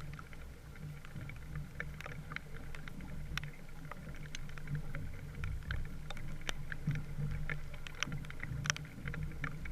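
Small wooden sailboat under way: a steady low rush of water and wind, with scattered sharp ticks throughout.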